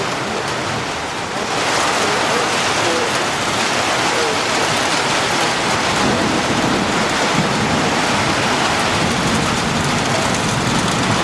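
Rain falling steadily, a loud even hiss that grows stronger about a second and a half in.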